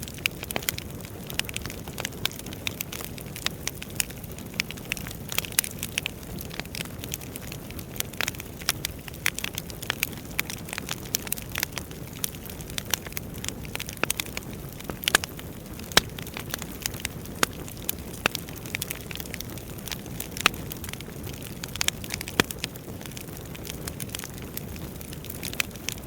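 Wood fire burning in a fireplace: a steady low rush of flames with irregular sharp crackles and pops, several a second, some much louder than the rest.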